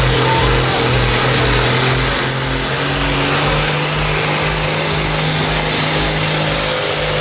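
Competition pulling tractor's engine running flat out under load during a pull, a loud, steady drone with a pulsing low end.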